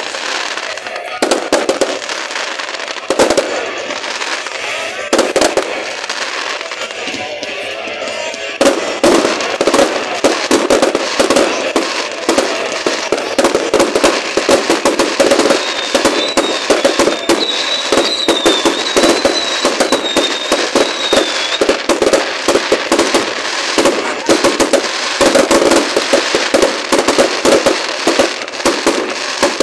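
Fireworks going off in a rapid, continuous run of bangs and crackles, growing denser about a third of the way through. A wavering high whistle runs for several seconds in the middle.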